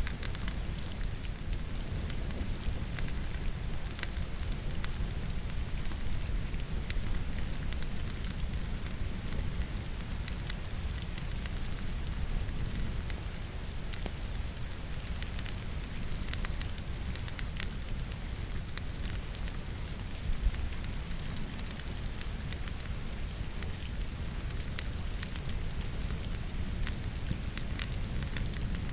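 Logs crackling and popping in a fireplace fire, with irregular sharp snaps over a steady low rumble, one louder pop about twenty seconds in. Steady rain falls underneath.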